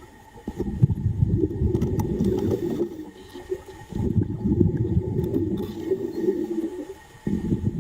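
Underwater rumbling and bubbling of a diver's exhaled breath, coming in surges of two to three seconds with short lulls between them.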